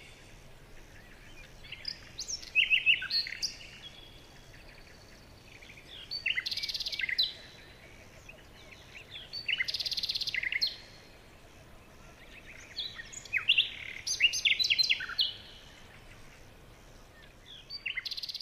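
Birds chirping in bursts of rapid, high calls that come every few seconds, over a steady background hiss.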